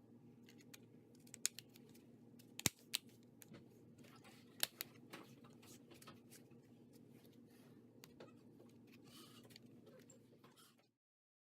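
Scattered sharp clicks and taps of small laptop parts being handled, over a steady low hum. The sound cuts off abruptly near the end.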